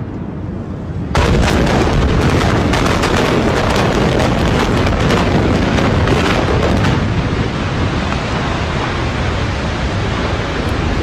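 Controlled building demolition: a sudden loud blast about a second in, then a long rumble and crackle of collapsing debris that eases somewhat after about seven seconds.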